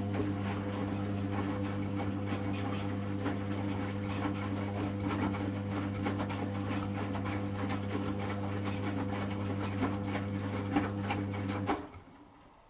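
Servis M3008B washing machine's drum motor running with a steady hum while the wet load tumbles with irregular clicks and splashes. It stops abruptly near the end: the drum's on-off wash action during the heating stage.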